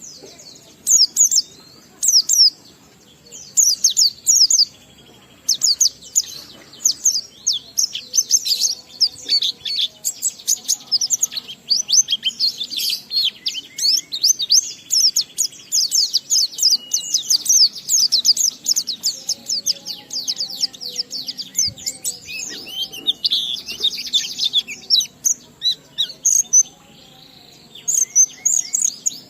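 White-eye (pleci) singing: a few short, separate high-pitched phrases at first, then a long, rapid, unbroken twittering run of notes, with a brief pause near the end. This is the long, continuous song that keepers call 'ngalas'.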